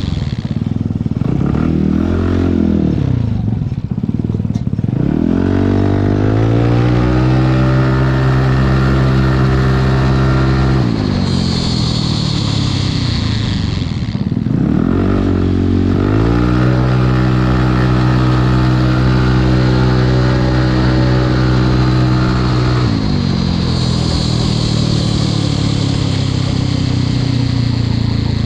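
Yamaha Cygnus X scooter's single-cylinder four-stroke engine being revved. The pitch swings up and down a few times, then twice climbs and holds at a steady pitch for several seconds, dropping back in between and near the end.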